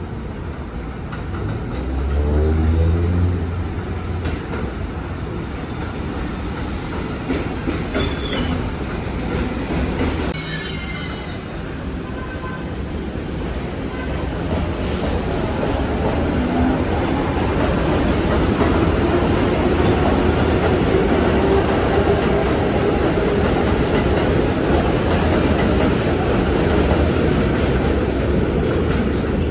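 New York City Subway 1 train running on the rails, its R62A cars rumbling and rattling, with brief high wheel squeals about a third of the way in. In the second half a steady hum rises and the running grows louder as the train picks up speed.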